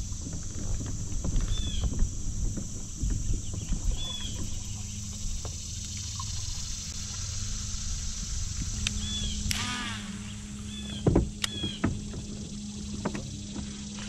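Riverside ambience from a fishing kayak: a bird repeats a short chirp about every two seconds over a steady high hiss. Knocks and rattles come from the kayak and fishing gear, loudest about eleven seconds in.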